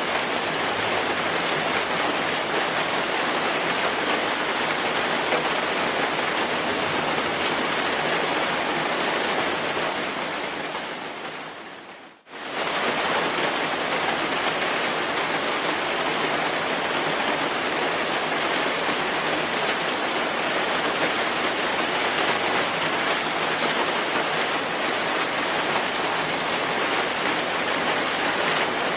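Steady rainfall, an even hiss of drops. About ten seconds in it fades away, dips to near silence for a moment around twelve seconds, then swells straight back to full strength.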